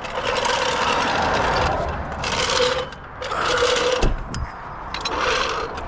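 Impact wrench running in about four bursts of rapid hammering, each lasting from half a second to a couple of seconds, while working the lug nuts of a car wheel.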